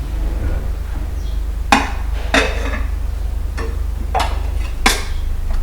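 Dishes and utensils clinking against each other as they are washed by hand: about five sharp clinks, over a steady low hum.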